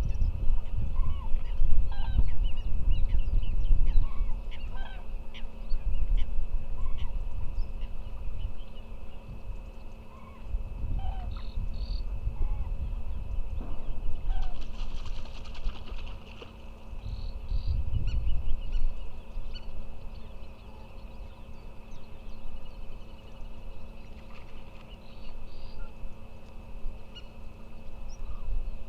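A flock of waterbirds honking and calling in short, scattered goose-like notes, over a low rumble that swells and fades.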